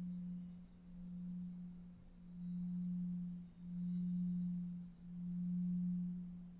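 A single low, pure drone tone for meditation, held steady in pitch and swelling and fading in slow waves about every second and a half.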